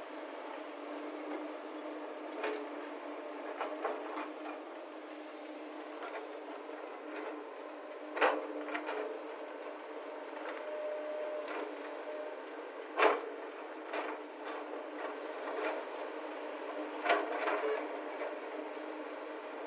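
Excavator diesel engines running steadily while loading soil into a tipper lorry, with scattered sharp knocks and clanks of bucket and load; the three loudest are several seconds apart.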